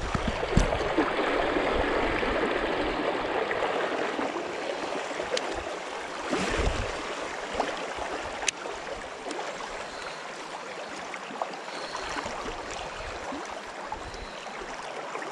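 Small river's water running and babbling steadily, with a few low bumps and faint clicks.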